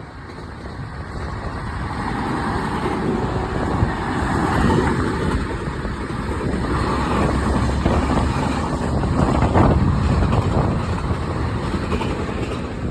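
A train running on the track: a steady rumble mixed with wind, growing louder over the first few seconds, with a few sharp clacks in the middle.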